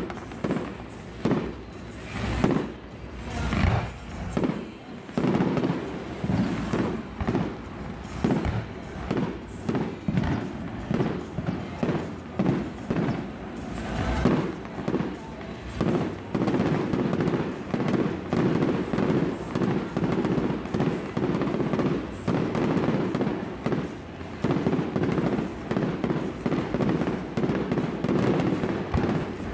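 Aerial fireworks going off in a quick string of bangs, separate booms at first giving way about halfway through to a dense, almost continuous barrage of bangs.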